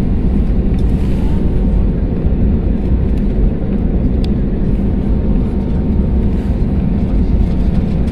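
Steady low rumble with a constant faint hum, even in level throughout, with a few faint clicks.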